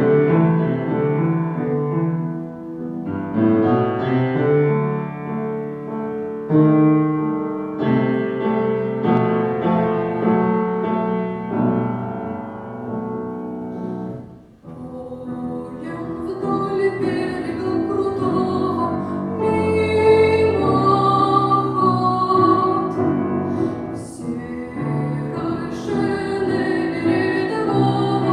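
A piano plays an introduction of chords, then a brief lull about halfway through. After it, a female voice starts singing in an academic classical style, with vibrato on held notes, over the piano accompaniment.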